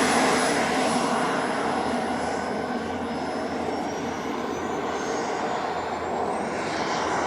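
RC model jet's miniature turbine engine whining in flight, getting quieter over the first few seconds. Near the end its high whine rises in pitch.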